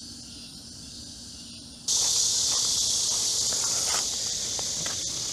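Faint insect chirring, then about two seconds in a loud, steady chorus of cicadas comes in abruptly, with a few light knocks and rustles over it.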